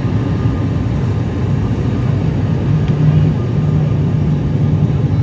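ATR 72 turboprop airliner's engines and propellers droning steadily, with a low propeller hum that strengthens about three seconds in.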